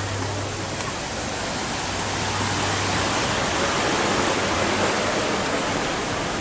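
Steady rush of falling water, a waterfall-like noise that swells slightly midway, over a low hum that fades out about five seconds in.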